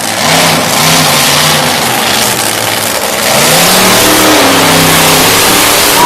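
Monster truck engine revving loudly, its pitch rising and falling, then climbing again a little past halfway.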